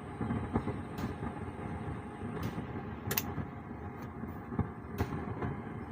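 Stranger PBT 701 amplifier making a steady rough crackling noise through its speaker even with the volume at zero: the fault noise being repaired. Several sharp clicks are scattered through it.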